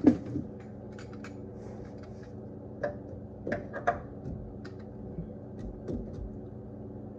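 Scattered light clicks and taps of a socket and the oil drain plug being handled, over a steady low hum.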